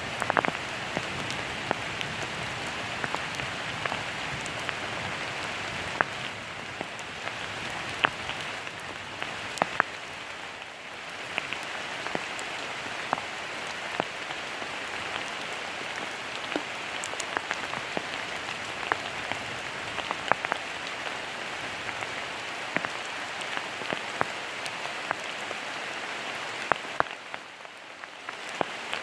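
Steady autumn rain falling, a constant hiss dotted with frequent sharp ticks of single drops striking close by. It eases briefly near the end.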